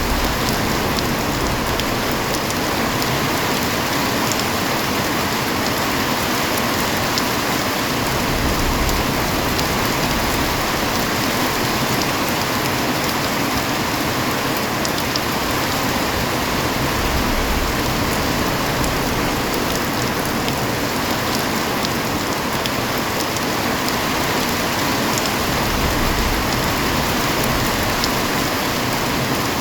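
Heavy rain falling steadily, a dense even hiss of rain with fine scattered drop ticks. A low rumble swells briefly about eight seconds in and again near the end.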